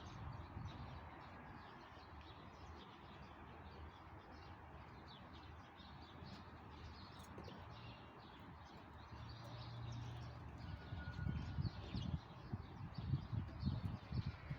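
Small birds chirping repeatedly over a steady, faint background hiss, with low rumbles coming in about eleven seconds in.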